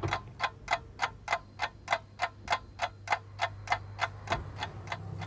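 Clock ticking steadily, about three ticks a second, marking the roasting time passing.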